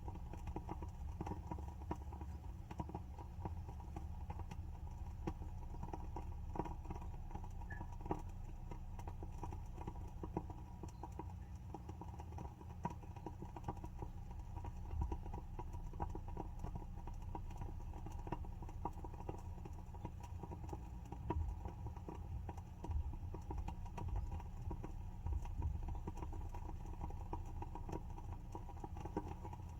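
WoodWick candle's wooden wick burning, crackling with a dense run of small, irregular pops and ticks, over a steady low hum.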